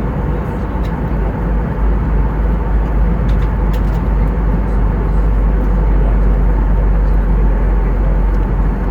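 Steady cabin noise of an Airbus A320 in flight: a constant deep rumble with a dense rush of airflow and engine noise over it.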